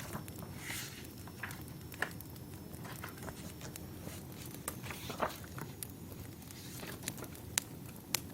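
Wood fire burning: a steady low rumble of burning logs with irregular sharp pops and snaps of the wood crackling, a few louder single pops standing out.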